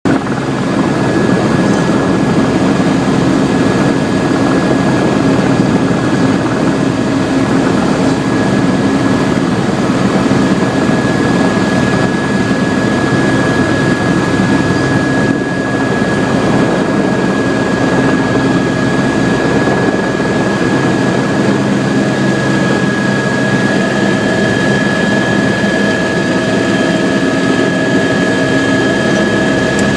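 Helicopter engine and rotor running steadily, a dense rumble under a constant high whine.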